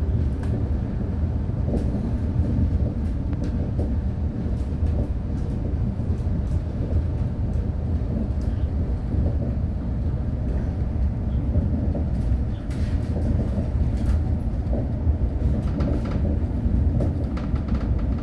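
A suburban passenger train running, heard from on board: a steady low rumble with occasional short clicks from the wheels on the track.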